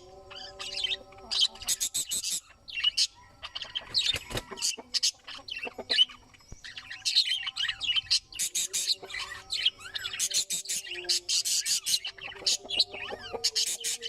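Budgerigars chattering: a dense, continuous stream of short chirps and warbles in irregular bursts.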